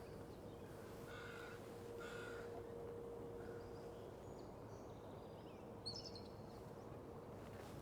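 Faint bird calls: a few short, harsh calls in the first couple of seconds, then a brief high chirp about six seconds in, over quiet marsh background.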